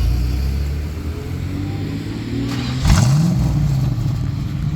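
Car engine running with a low, steady note, with one quick rev rising sharply about three seconds in.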